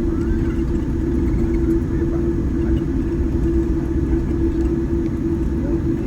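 Cabin noise of a Boeing 787-10 on the ground after landing: a steady low rumble with a constant hum.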